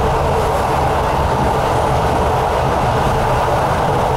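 Commuter train running steadily at speed, heard from inside the carriage by the window: an even rush and rumble of the wheels on the rails.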